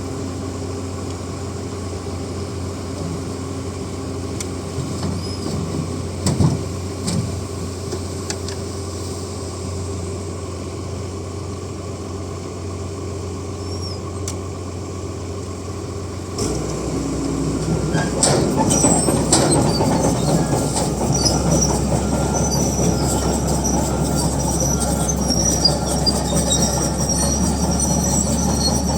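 Bulldozer's diesel engine running steadily, then about 16 seconds in it gets louder as the machine works, with high squealing and clanking from its steel tracks.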